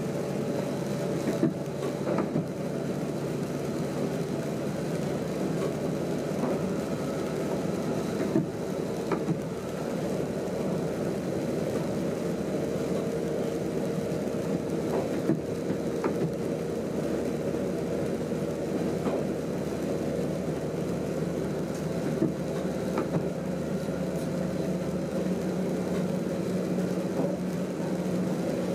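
Train running steadily, heard from inside the driver's cab: an even hum with a couple of held tones, and scattered light clicks and knocks throughout.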